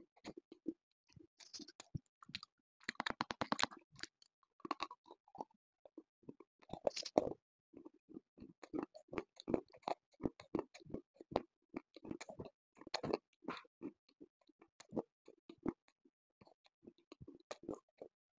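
Close-miked chewing and crunching of hard, brittle black slate pieces, made up of irregular crisp crackles. The crunching comes thicker about three, seven and thirteen seconds in.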